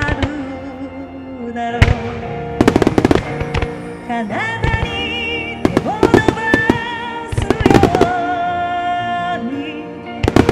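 Large aerial firework shells bursting in several quick clusters of sharp bangs over a hymn melody with long held, wavering notes.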